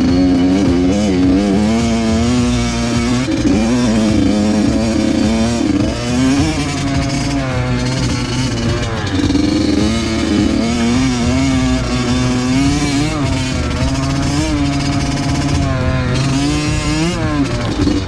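Two-stroke dirt bike engine revving up and down while riding a motocross track, its pitch rising and falling over and over as the throttle is worked.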